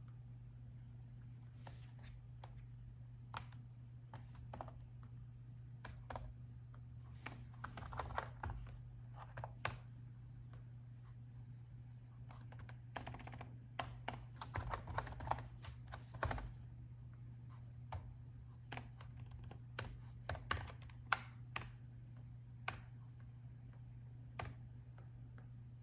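Typing on a laptop keyboard: quick runs of key clicks in irregular bursts with short pauses between them, over a steady low hum.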